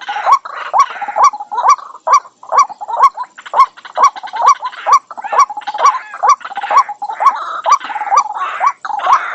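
White-breasted waterhen calling: a steady run of short notes that flick upward, about two a second, over a harsh, raspy croaking.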